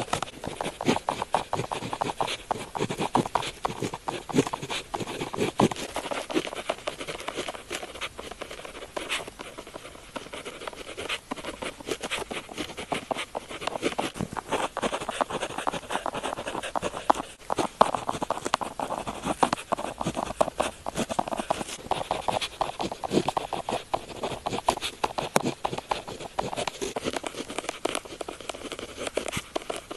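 A pen tip scratching and tapping across paper in many quick, short strokes: continuous handwriting.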